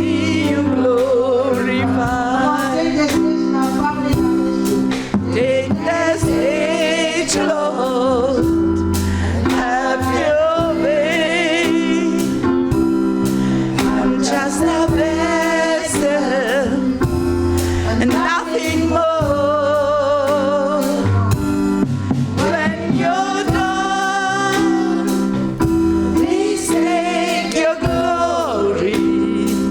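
Live gospel music: singing with wide vibrato over steady sustained chords, a bass line and drums.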